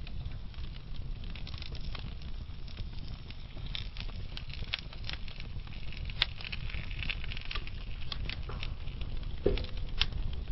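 Wood fire burning in a fireplace: a steady low rumble of flames with irregular crackles and sharp pops. There is a louder pop about six seconds in, and another near the end just after a brief low whistle.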